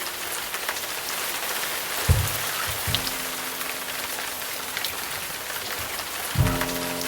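Steady rain falling. Slow background music sounds low, sustained notes about two seconds in and again near the end.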